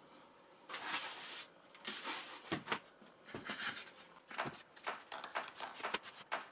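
Sped-up workbench handling noises from assembling a foam RC model jet: quick rustles, clicks and taps following one another rapidly.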